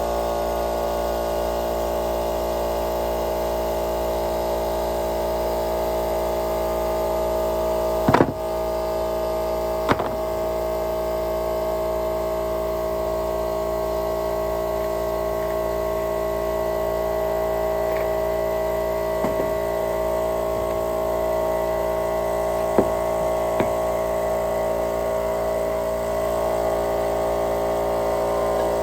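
Air compressor running steadily with a constant hum of several fixed tones. A few sharp knocks, the loudest about eight seconds in, come from handling objects.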